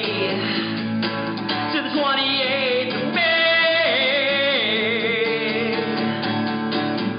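A man singing with an acoustic guitar, drawing out long, wavering notes from about three seconds in over steady strummed chords as the song nears its end.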